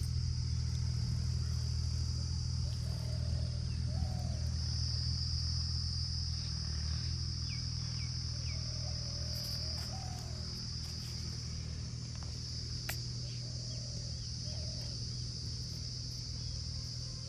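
A steady low rumble with a high, unbroken insect-like drone over it, and faint short chirping calls now and then; a single sharp click about 13 seconds in.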